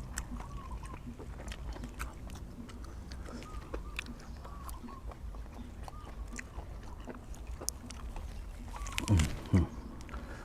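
A person chewing and biting food close to the microphone, a steady run of small wet clicks and smacks. Near the end come two short, louder sounds that fall in pitch.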